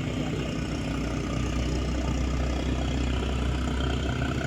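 A boat's engine running with a steady low drone. The lowest part of the drone grows stronger about a second and a half in.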